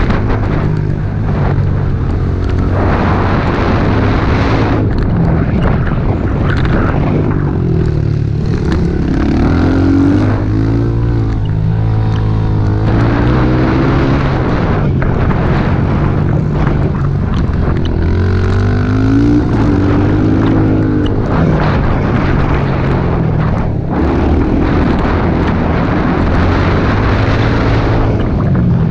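Small pit bike engine being ridden hard. Its pitch climbs and drops repeatedly as the throttle is opened and rolled off, with a continuous rushing noise underneath.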